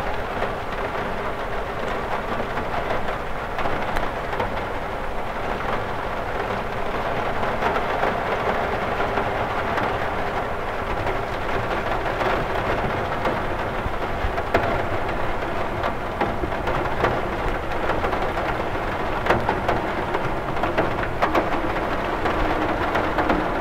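Steady rain on a cathedral window: a dense, even hiss of drops with scattered sharper ticks.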